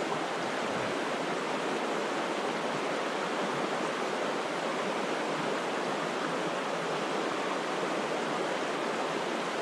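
Steady rush of a fast-flowing brook, an even wash of water noise that holds level throughout.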